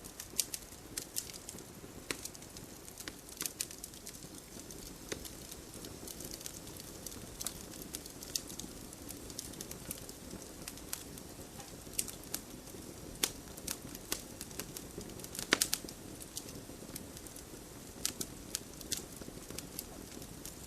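Wood campfire crackling: a steady low rustle of burning with frequent sharp pops and snaps scattered throughout, and a quick cluster of louder pops about fifteen seconds in.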